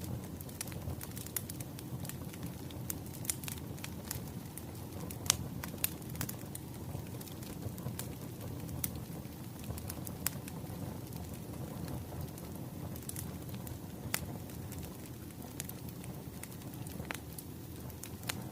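Wood fire burning, with a low steady rumble under irregular sharp crackles and pops.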